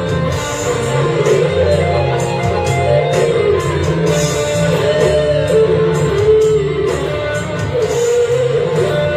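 Rock band playing with an electric guitar lead: bending, sustained guitar notes over bass and drums.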